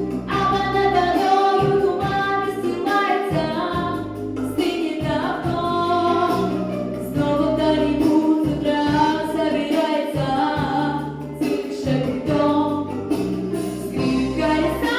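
Female voice singing a pop song over a backing track with a steady bass line.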